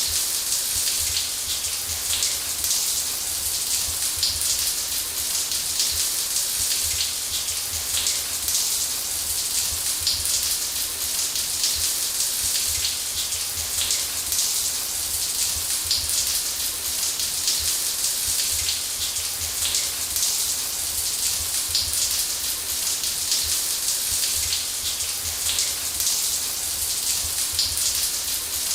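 Running shower: a steady spray of water spattering onto a surface, a dense even hiss with fine droplet patter and a faint low rumble.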